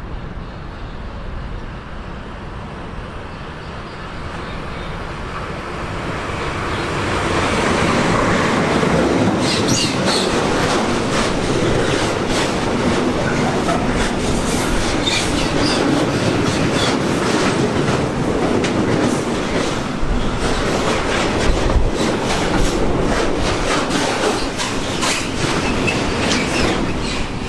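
A train approaching and passing close by, louder over the first several seconds, then wheels clattering rhythmically over rail joints with brief high wheel squeals.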